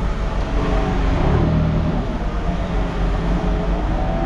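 Diesel engine of heavy equipment running loudly, its pitch rising and falling as it is revved up and down while the machine works.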